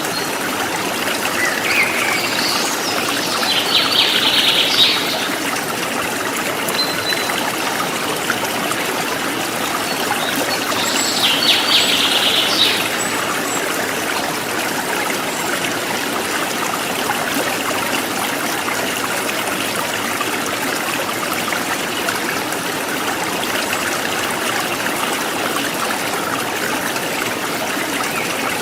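River water flowing steadily, with birds calling twice: a few seconds in and again around twelve seconds.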